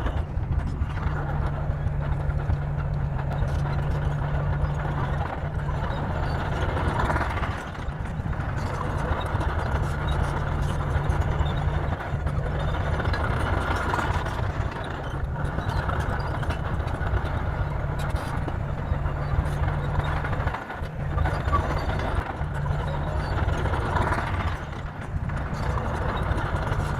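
Bulldozer's diesel engine running steadily, its mid-range noise swelling and easing every several seconds as it works.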